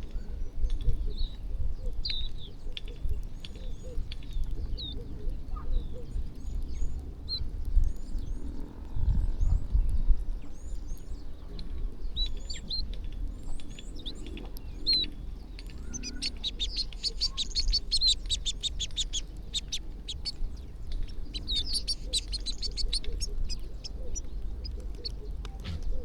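A flock of small birds chirping, with short high calls throughout and dense, rapid runs of chattering notes in the second half. A low rumble sits underneath, swelling briefly about a third of the way in.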